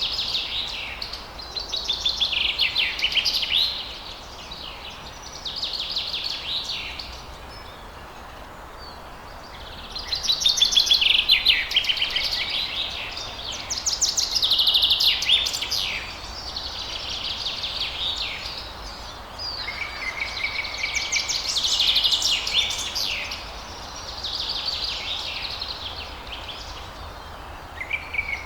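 Songbirds singing: bouts of fast chirps and trills a few seconds long, broken by short pauses, over a faint steady background hiss.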